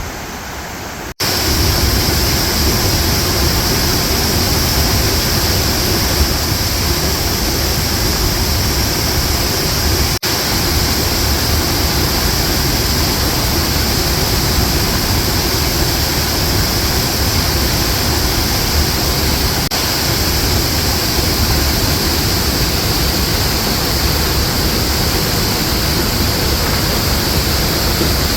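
Waterfall rushing: a loud, steady wash of falling water that jumps abruptly louder about a second in.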